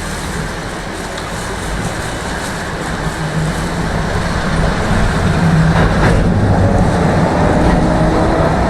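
Tram running on its rails, heard from inside the car; the running noise grows louder from about three seconds in. One sharp click comes about six seconds in, and a faint rising whine follows near the end.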